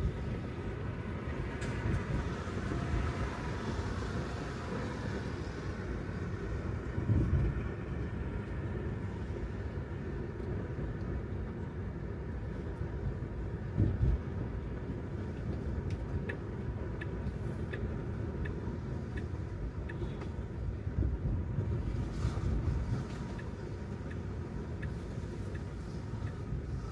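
Steady road and tyre rumble from a Tesla Model 3 driving on wet pavement, with two louder thumps about seven and fourteen seconds in.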